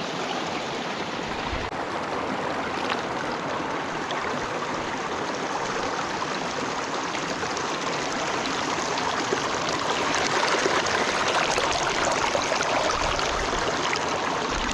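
A stream rushing and splashing over rocks, a steady full-range water noise that gets a little louder about ten seconds in.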